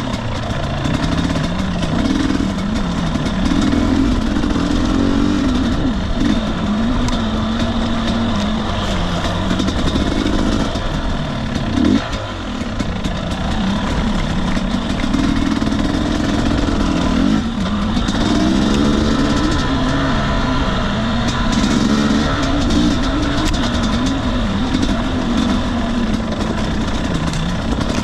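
A 2021 Husqvarna TE250i 250 cc two-stroke dirt bike engine running on singletrack, its revs rising and falling constantly as the throttle is worked. The engine note drops briefly about twelve seconds in and again a few seconds later.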